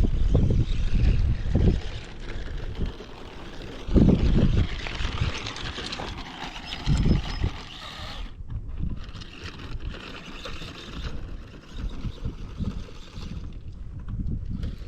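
Wind buffeting the microphone in heavy low gusts, over a steady hiss that is likely the 1/12 scale RC short course truck driving on hard ground.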